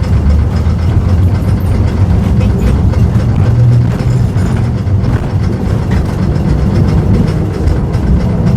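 Historic tram running on its rails: a steady low rumble with light clicking from the wheels and track.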